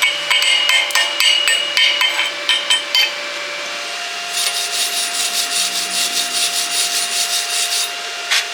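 Repeated rubbing or scraping strokes, about three a second, then a faster, brighter run of strokes from about four seconds in until near the end, over a steady hum; a single sharp click near the end.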